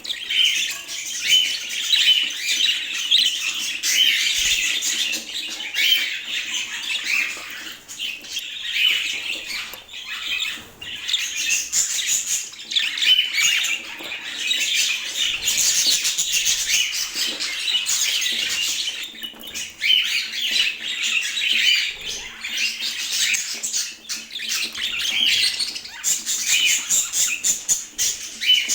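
Budgerigar warbling and chirping continuously: a dense, unbroken stream of chatter.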